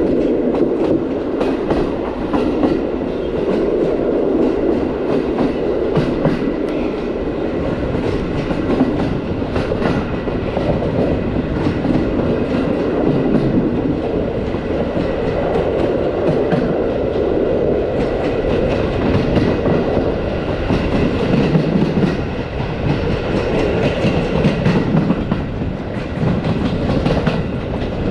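Passenger train carriage running along the track: a steady rumble of the wheels on the rails, with repeated clacking and knocking as the wheels pass over rail joints.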